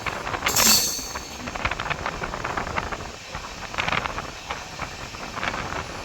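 Passenger train running, with irregular rattling and clatter over a steady rumble and a brief hiss about half a second in.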